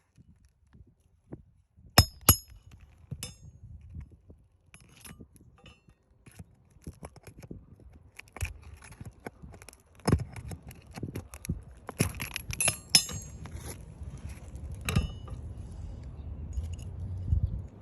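Hand tools working on roof shingles: sharp metallic clinks and taps, with a few louder strikes about 2 seconds in and again between about 10 and 15 seconds, and scraping and rustling in between.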